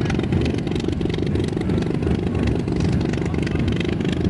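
A car engine running at low speed, a steady rumble of even firing pulses.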